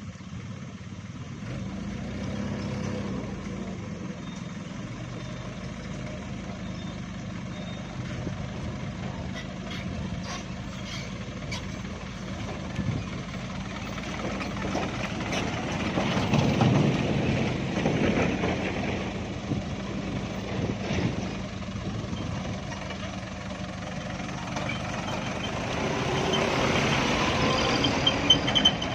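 Diesel engine of an engkel truck laden with sand and gravel, running steadily under load; it grows louder about halfway through and again near the end.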